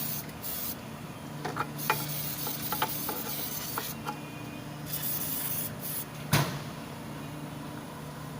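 Mechanic's workshop sounds during reassembly work. Light metal clicks and taps, with hiss coming and going, over a steady low hum. One sharp knock about six seconds in.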